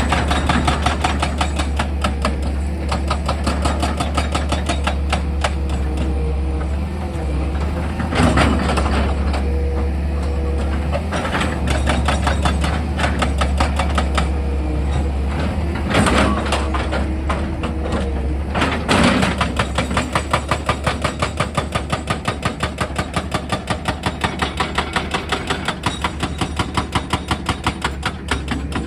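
Heavy excavator engine running with a steady low hum under rapid, continuous hammering of a percussion rock drill. There are a few heavier jolts, and in the last third the strikes settle into an even beat of about four a second.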